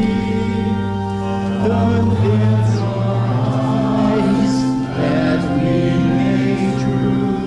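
A group of voices singing a hymn together over sustained organ chords.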